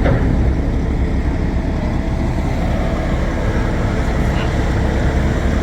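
Steady vehicle rumble with an even, noisy hiss over it, no change in pitch.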